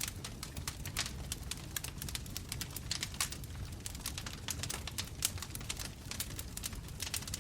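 Bonfire crackling: wood popping and snapping in many sharp, irregular pops over a steady low rumble of the flames.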